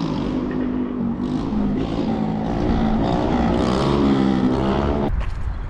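A public-address loudspeaker announcement, muffled and drawn out, that cuts off abruptly about five seconds in. A low engine or wind rumble runs underneath.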